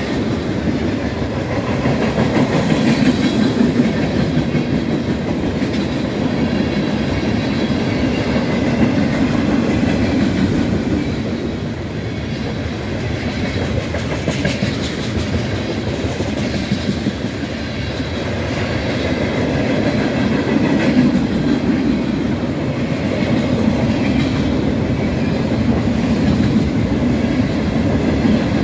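A train rolling past on the rails: a steady rumble with the clickety-clack of wheels over the rail joints.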